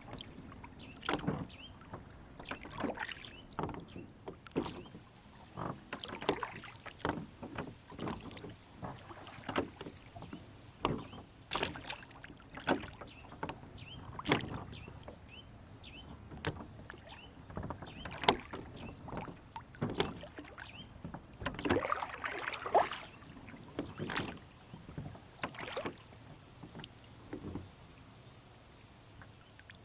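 Rowboat on a lake: a string of irregular knocks and splashes, about one or two a second, as water laps and slaps against the hull and the oars work.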